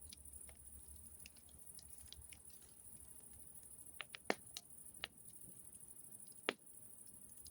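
Campfire crackling faintly, with scattered sharp pops of burning wood, the loudest a little past four seconds in and again about six and a half seconds in.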